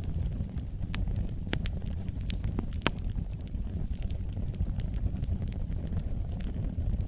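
Campfire burning, with a steady low rumble and scattered sharp pops and crackles of burning wood, most of them in the first half.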